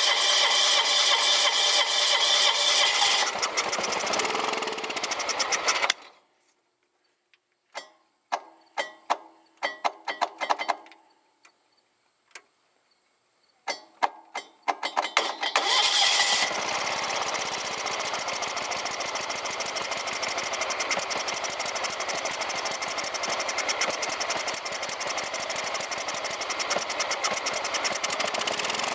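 Wheel Horse 257H garden tractor's Kawasaki engine, cold-started after sitting on a little gas poured into the carburettor: it runs, dies out about five seconds in, and after a stretch of scattered clicks and knocks catches again about fourteen seconds in and keeps running steadily with a fast, even firing rhythm.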